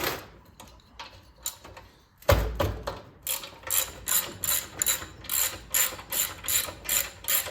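A ratchet wrench clicking in a steady rhythm, about three strokes a second, while working a bolt loose on a small engine during teardown. A knock comes just after two seconds in, before the ratcheting starts.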